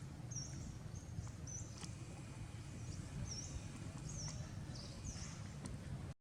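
A small bird chirping repeatedly: about six short high chirps, each with a quick bend in pitch, spaced roughly half a second to a second apart, over a low steady rumble of outdoor background noise. The sound cuts off suddenly at the very end.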